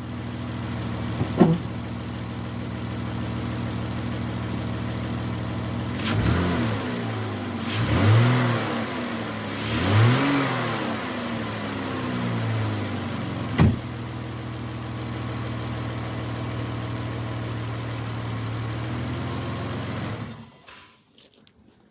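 2011 Chrysler Town & Country's 3.6-litre Pentastar V6 idling steadily, freshly tuned up with new spark plugs, running smoothly. The throttle is blipped several times midway, the engine rising and falling in pitch each time. The engine stops near the end.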